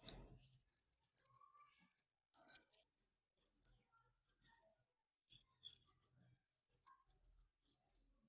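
Short, crisp scraping and clicking sounds of hand work on rusty metal, coming in quick runs with brief silent gaps between them.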